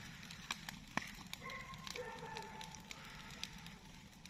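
Large bonfire of burning rubbish crackling, with scattered sharp pops and snaps.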